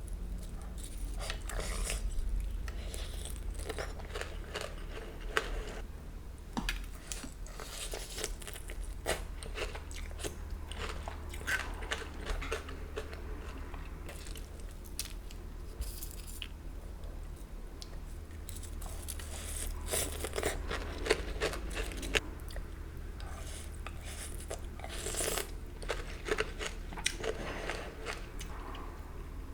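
Close-miked eating sounds: irregular crunchy bites and chewing of a saucy, crunchy oyster dish, coming in clusters, over a steady low hum.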